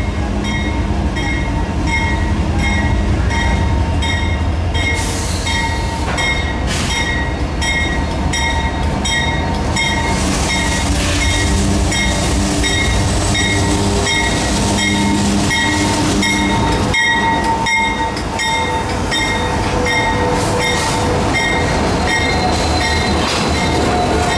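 Freight train led by diesel locomotives rolling past at close range: heavy engine rumble, with a bell ringing in a steady rhythm.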